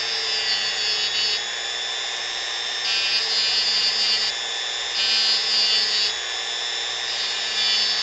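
Dremel rotary tool running at high speed, carving wood: a steady high whine that gets louder in four spells as the bit cuts.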